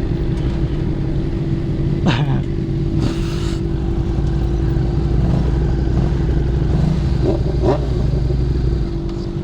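Honda CBR600RR inline-four motorcycle engine running at steady revs, a constant hum over a low rumble. A couple of brief sweeping sounds come about two seconds in and again near the end.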